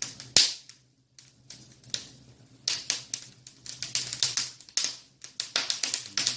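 Wood fire crackling and popping irregularly in an open masonry fireplace, over a steady low hum of the chimney draft pulling well.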